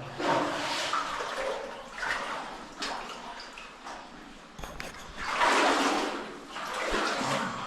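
Water sloshing and splashing in a shallow cave stream, in uneven bursts about a second long, the loudest a little past halfway.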